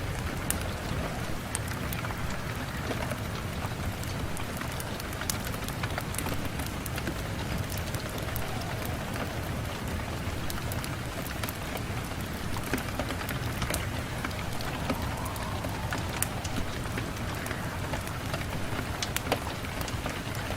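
Steady rain on a window, a continuous even hiss with frequent sharp, scattered ticks throughout.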